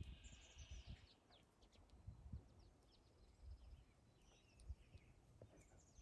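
Faint birdsong: small birds chirping and trilling, with a brief trill in the first second and scattered high chirps after it, over soft low bumps.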